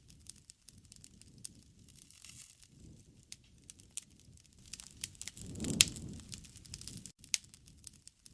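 Bonfire burning, crackling and snapping at irregular moments over a low rush of flame, which swells a little past the middle with one sharp, loud pop.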